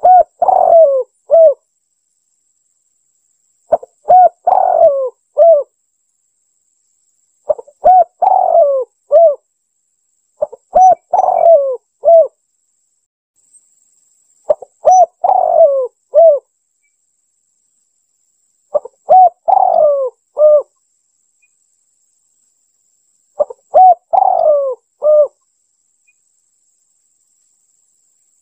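Spotted dove (tekukur) cooing: a short phrase of several coo notes, repeated about every four seconds, seven times over.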